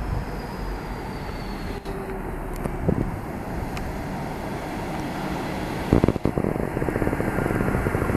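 Heavy diesel freight locomotive approaching and passing through the station, its engine droning steadily. About six seconds in comes a sudden loud clatter, followed by a fast rhythmic clatter that grows louder.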